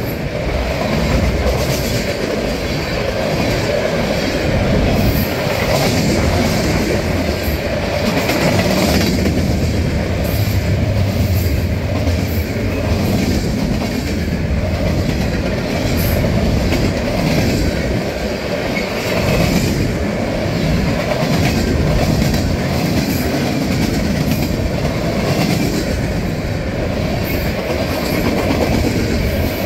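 Freight cars of a long mixed freight train rolling past close by: a steady rumble of steel wheels on the rails, with a stream of clicks and clacks from the wheels throughout.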